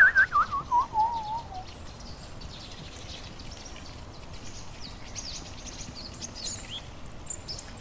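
A wobbling whistle-like tone slides down in pitch over the first second and a half, then faint high bird chirps come and go over a low steady hiss.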